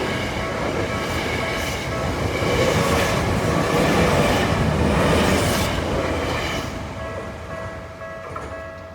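A commuter electric train passing over a level crossing, its running noise fading away after about six seconds. The crossing's warning bell rings steadily under it and is heard more clearly as the train recedes.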